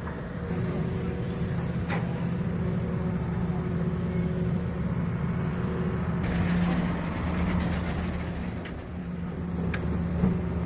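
Heavy diesel engine running steadily at idle, with a few faint knocks over it.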